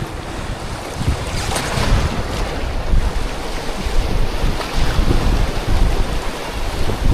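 Rushing river water with wind buffeting the microphone, a dense uneven rumble with a few sharper knocks or splashes about one and a half to two seconds in.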